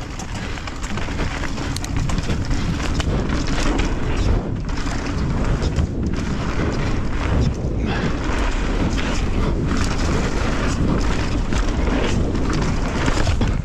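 Wind buffeting the microphone and knobby tyres rolling over a dirt trail as a mountain bike descends at speed, with scattered knocks and rattles from the bike over bumps. The rush grows louder about two seconds in and then holds steady.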